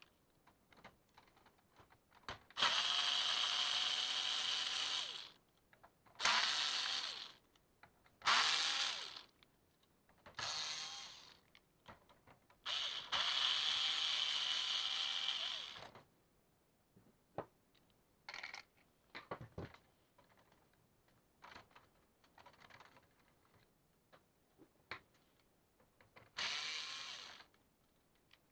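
A small electric screwdriver whirring in six short runs, the longest about three seconds, as screws come out of a printer's document-feeder gearbox. Between the runs, small clicks of plastic parts being handled.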